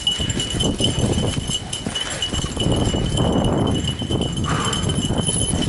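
A fat bike rolling along a woodland trail while dogs pull it: a continuous irregular patter and crunch of tyres and paws on the ground, with a steady high whine underneath.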